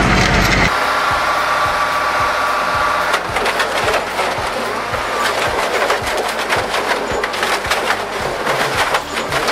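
Wood splintering and cracking under heavy machinery: a dense, irregular run of sharp snaps and crackles, with a steady mechanical whine in the first few seconds.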